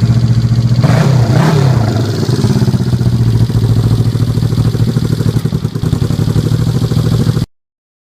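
Honda CB360's air-cooled parallel-twin engine running, blipped twice about a second in, then settling to a steady idle before cutting off suddenly near the end.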